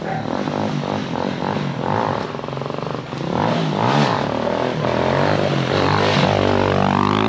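Dirt bike engine revving hard on a wheelie run, its pitch rising and falling several times, with a strong rise near the end.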